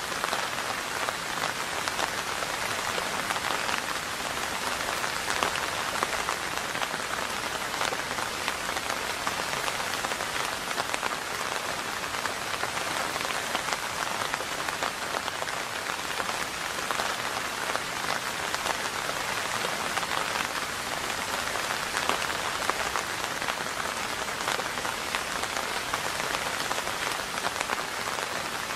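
Steady rain falling: an even, dense patter of many drops that holds without let-up.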